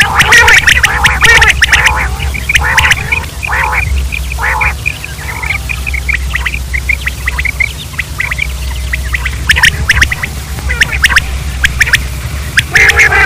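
Quail calling in rapid runs of short, harsh notes, dense at first, thinning out in the middle and crowding in again near the end, over a steady low hum.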